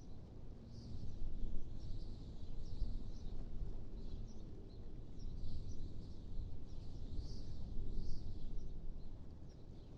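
Wind blowing in gusts, a low rushing noise that swells and eases every second or two, with faint high bird chirps recurring over it.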